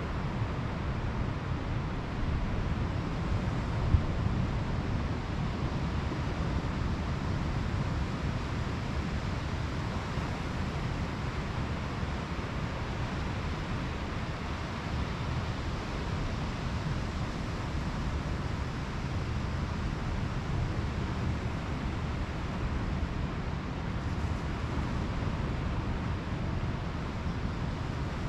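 Pacific Ocean surf washing steadily onto a beach, with wind buffeting the microphone as a low rumble. A single brief knock comes about four seconds in.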